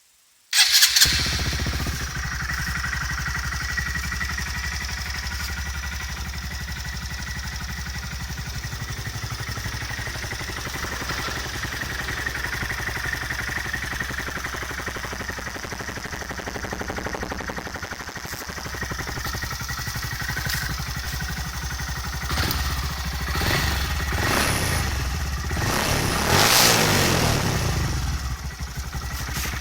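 Honda MSX 125 (Grom) single-cylinder four-stroke engine breathing through an Akrapovič slip-on silencer with its dB-killer baffle removed. It starts up suddenly about half a second in, idles steadily, then is revved several times in the last third.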